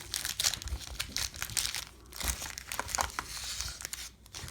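Plastic-foil trading card pack wrappers crinkling with irregular crackles as the packs are handled, easing off near the end.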